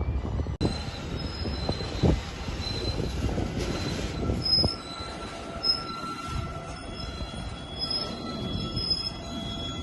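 Freight train wheels squealing against the rails as the cars roll past, several steady high-pitched squeal tones over the rolling noise. A few sharp knocks are heard about two seconds in and again around the middle.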